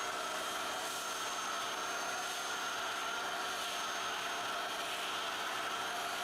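Pressure washer running with a foam cannon attached, spraying soap in a steady hiss over a steady motor whine.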